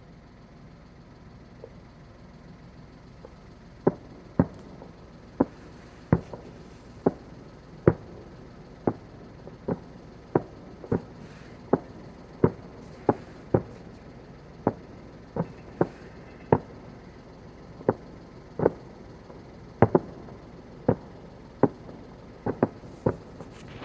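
Fireworks bursting in a rapid series, sharp separate bangs about one a second and varying in loudness, starting about four seconds in over a steady low background.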